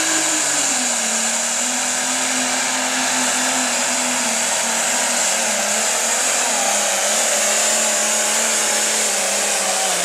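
Diesel engine of a light pro stock pulling tractor running hard at high revs through a pull. It is a loud, steady drone whose pitch dips slightly about a second in and then holds level.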